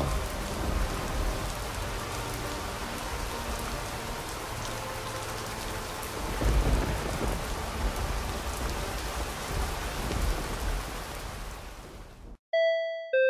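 Heavy rain falling steadily, with a low rumble of thunder about halfway through. The rain cuts off abruptly near the end, and a two-note chime follows, the second note lower, like a doorbell ding-dong.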